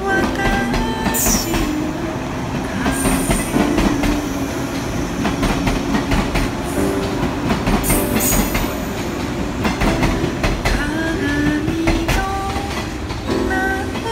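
JR West 117 series electric train running past and pulling away, its wheels clattering over the rail joints. There are brief high wheel screeches three times, at about one, three and eight seconds in.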